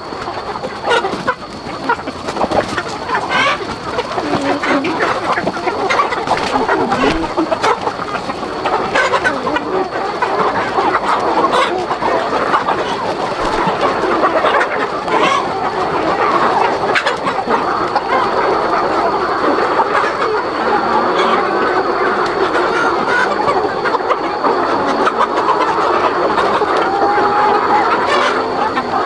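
A large flock of chickens clucking and calling all at once, a dense, steady chatter of many birds.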